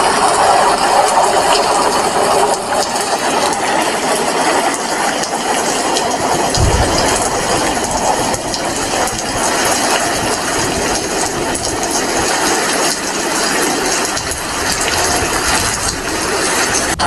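Heavy rain falling steadily, a dense patter of drops. A brief low thump about a third of the way in.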